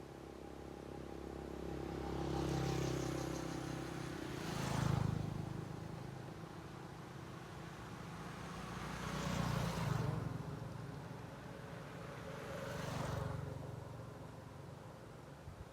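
Road vehicles passing one after another, each one's engine and tyre noise swelling and then fading away, over a steady background of traffic.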